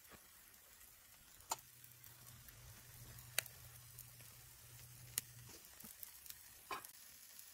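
Egg-and-cauliflower omelette frying in a stainless steel pan: faint sizzling with four sharp ticks spread across it.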